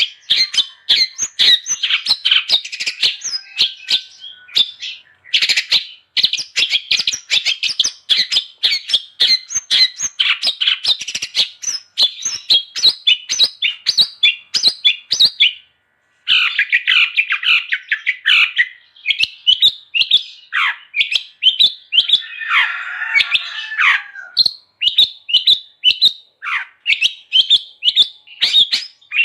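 Long-tailed shrike (cendet) singing a fast, chattering song of rapid, high notes. The song breaks off for an instant just past halfway, and a harsher, rasping phrase comes about two-thirds of the way through.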